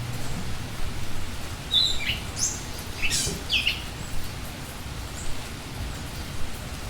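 Birds calling over a steady hiss of forest ambience: a quick run of short chirps and downward-sweeping whistles about two to four seconds in, then a single faint call.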